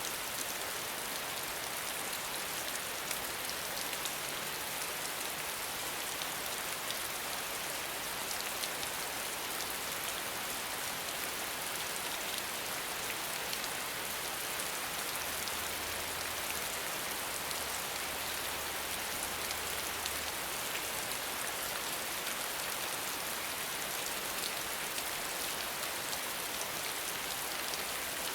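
Steady rain falling, a dense even hiss with individual drops ticking through it.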